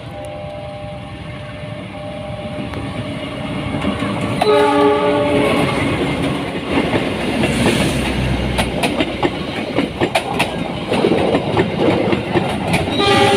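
A train passing close by: its horn sounds about four seconds in, then the wheels clatter over the rail joints as the cars go past, and the horn sounds again near the end.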